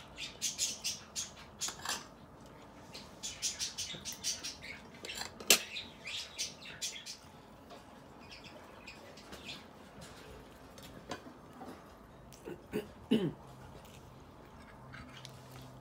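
Close-up mouth sounds of a person eating shrimp and mussels: wet chewing and lip-smacks, densest in the first seven seconds, with one sharper click about five and a half seconds in. A short hum near the end.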